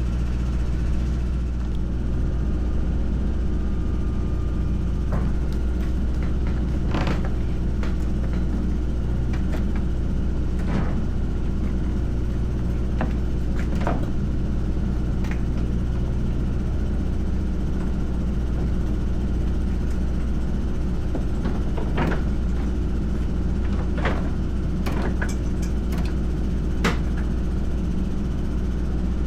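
An engine idling steadily, with scattered short clicks and knocks over it.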